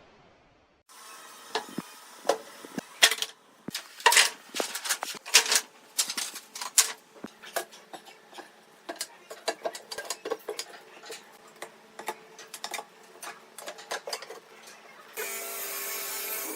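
Workshop hand-work clatter: irregular taps, clicks and knocks of tools and wood pieces being handled. About fifteen seconds in, a steady machine hum starts and runs on.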